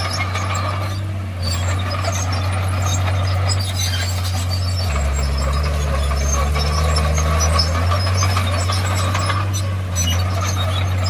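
Komatsu D51PX crawler bulldozer's diesel engine running under working load. Its note drops a little about halfway through and picks back up a few seconds later.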